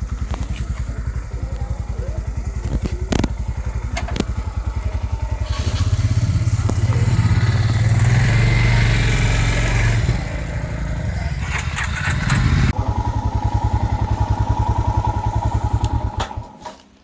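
Motorcycle engine running with a steady low pulsing beat. It gets louder and busier from about a third of the way in, as if revved or pulling away, then settles to a steady run and drops away near the end.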